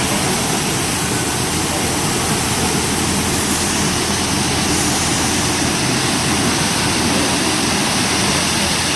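WashWorld Razor touchless in-bay automatic car wash running, a loud steady rushing noise from its spray and drying equipment.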